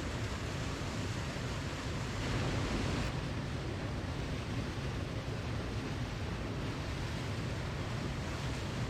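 Steady rushing of falling water from a waterfall, with a slight swell between two and three seconds in.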